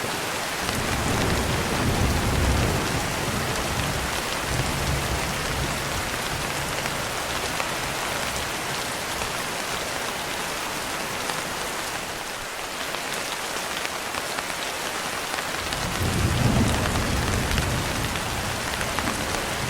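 Steady rain with two low rumbles of thunder: one starting about a second in and fading over a few seconds, another near the end.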